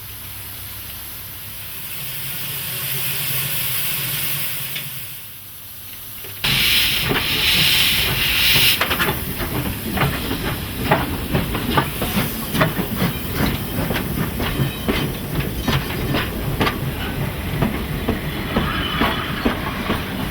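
Steam locomotive venting steam: a hiss swells and fades, then about six seconds in a sudden loud blast of steam lasts about two seconds, followed by a steady run of irregular metallic clanks and knocks.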